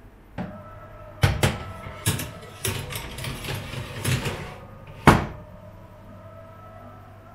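A series of knocks and clattering handling noises, with sharp strikes about a second in, about two seconds in and about five seconds in, and rustling clatter between them.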